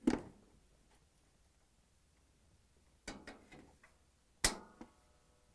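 Small clicks and rattles, then one sharp metallic snap with a brief ring about four and a half seconds in, as a washer tub's suspension spring brackets are locked into place.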